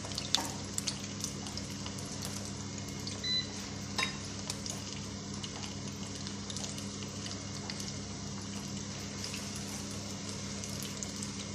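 Beef chapli kabab shallow-frying in hot oil in a frying pan over a low-medium flame: a steady sizzle of bubbling oil with scattered small crackles and pops.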